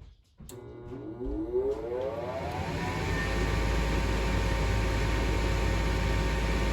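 A GMC gas furnace's fan motor switching on with a click about half a second in, its whine rising in pitch for about two seconds as it spins up to speed, then running steadily with a rush of air and a constant hum.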